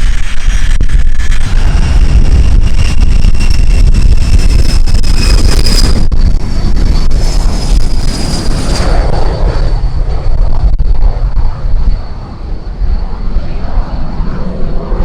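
Jet engine of an FMA IA-63 Pampa III jet trainer, loud and steady with a deep rumble, as the aircraft passes. A high whine falls slowly in pitch over the first half.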